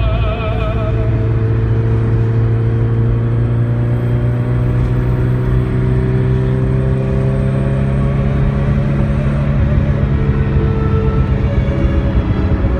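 Ferrari 308 GTS V8 engine heard from inside the cabin, pulling hard at speed, its pitch climbing slowly over several seconds, over road and wind noise.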